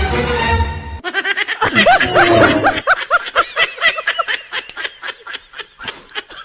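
A short stretch of music breaks off about a second in, followed by a long run of high-pitched laughter in quick, rising and falling bursts.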